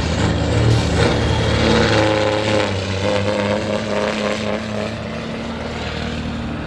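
Diesel engine of a semi truck running steadily, a low drone with a held hum over it through the middle.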